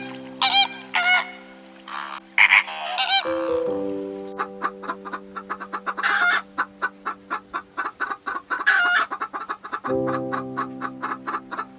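Flamingos honking, about five nasal calls in the first three seconds. Then common quail calling: a fast run of clucking clicks with two louder calls around six and nine seconds in. A steady background music chord runs beneath.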